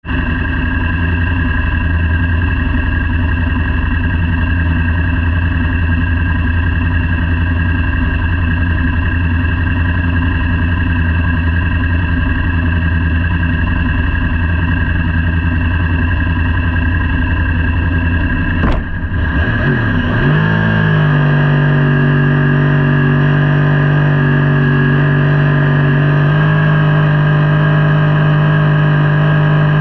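Superbike engine running at a steady low speed, then, after a sharp click about two-thirds of the way in, revved up and held at a steady higher pitch, stepping up slightly once more near the end.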